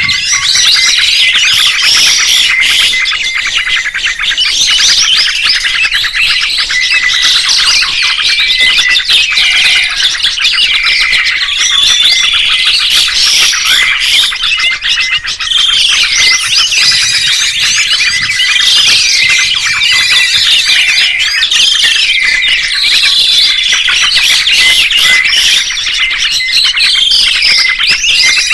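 A dense chorus of songbirds chirping and squawking, many quick, rapidly gliding calls overlapping without a break.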